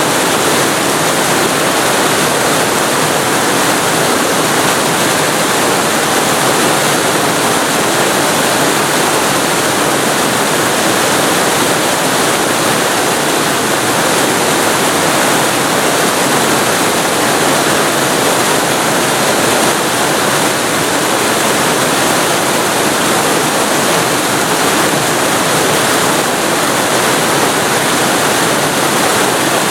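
Waterfall recorded very close to the falling water: a loud, steady rushing that does not change.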